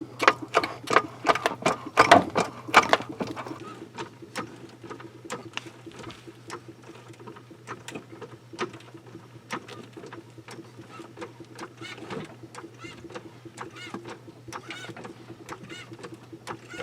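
Rapid clicking and tapping over a steady low hum, densest and loudest in the first three seconds, then sparser.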